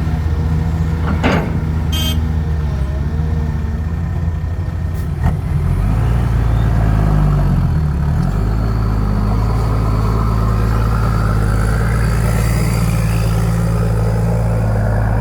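Heavy diesel engine running steadily; about six seconds in its note shifts lower and grows a little louder, as if taking load. A few sharp clicks come in the first seconds, and a faint rising whine sounds later on.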